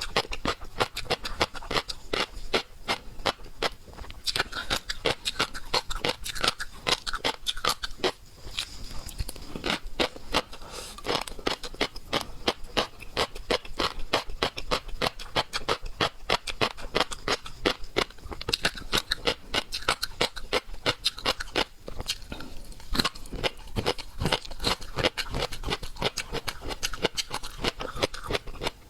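Close-miked eating of seafood: rapid, irregular crunching and crackling of biting and chewing that runs on without a break.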